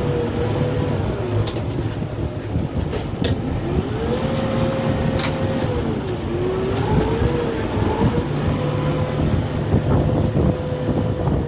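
Kubota M6-141 tractor's diesel engine revving up and settling back several times as it works the grapple in a tree, with a few sharp cracks or knocks over the steady rumble.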